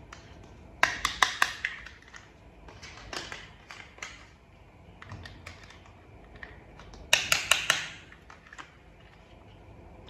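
Small hard plastic toy parts being handled and fitted, giving two quick runs of sharp clicks and clatters, about a second in and again near seven seconds, with softer scattered ticks and rustling between.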